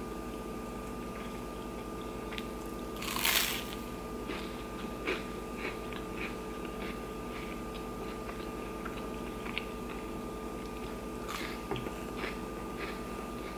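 Someone bites into toast loaded with corned beef hash, one loud crunch about three seconds in, followed by close-miked chewing with small wet clicks.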